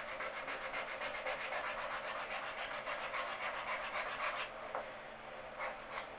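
Sandpaper rubbed back and forth on a piece of hardwood by hand, in quick even strokes about five a second; the strokes stop about four and a half seconds in and start again near the end.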